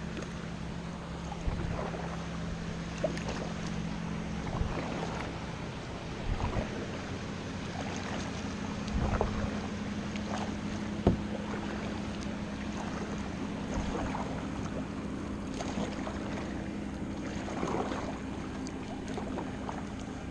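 Kayak paddle strokes dipping and splashing in lake water about every one to two seconds, over a steady low hum.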